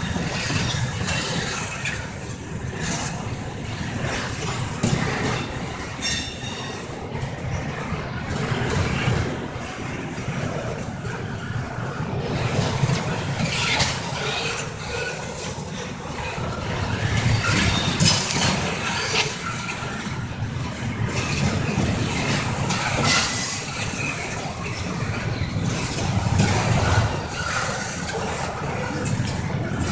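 Intermodal freight train rolling past: a steady rumble of wheels on rail with frequent clicks and a few brief flares of high-pitched metallic noise from the wheels.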